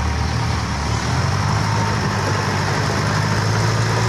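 Toyota Dyna dump truck's diesel engine idling with a steady low hum.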